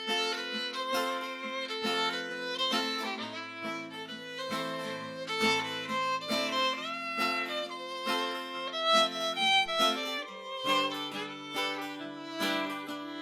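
Fiddle playing a melodic instrumental break over acoustic guitar accompaniment, in a fiddle-and-guitar folk duo.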